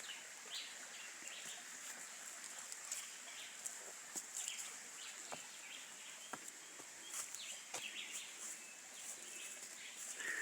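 Wild birds chirping and whistling in short calls over a steady high-pitched hiss, with scattered sharp clicks.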